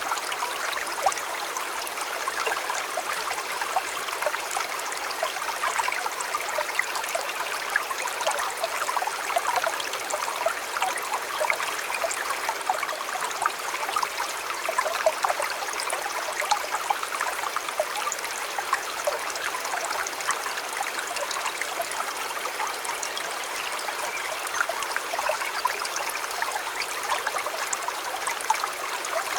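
River water flowing steadily, an even rush with many small trickles and splashes in it.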